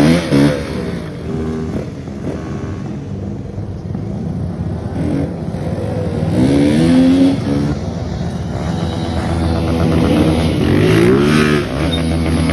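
Dirt bike engine revving and accelerating in repeated surges, the pitch climbing at the start, again about six seconds in, and again near the end. Music begins just before it ends.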